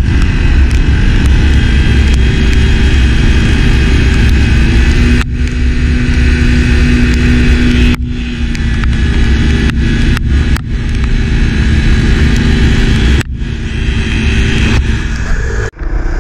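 Enduro motorcycle engine running steadily while riding, with heavy low wind rumble on the microphone. The sound drops sharply for a moment several times.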